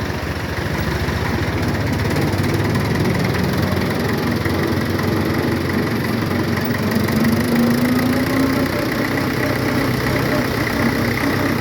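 1971 Belarus tractor's diesel engine running steadily with a fast, even chug.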